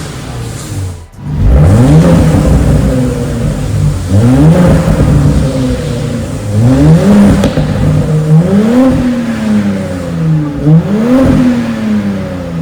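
Porsche Cayenne Coupe's twin-turbo V6 through an MS-R valved cat-back exhaust, revved again and again: about five rises in engine pitch, each falling back toward idle.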